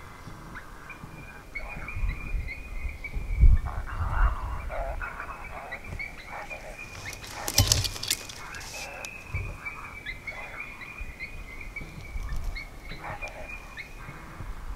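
Electronic predator call playing a high-pitched, wavering animal distress sound almost without a break, with wind gusting on the microphone and a sharp knock about halfway through.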